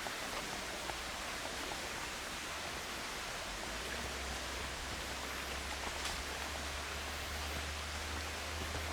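Steady, even rushing hiss, with a low steady hum joining about three and a half seconds in.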